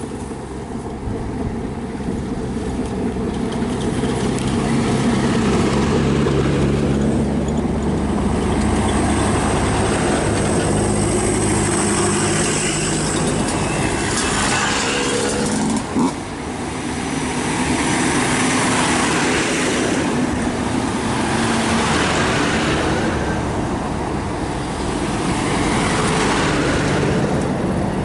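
Engines of jeeps and motorcycles driving past one after another, the sound swelling and fading as each goes by, with one sharp knock about halfway through.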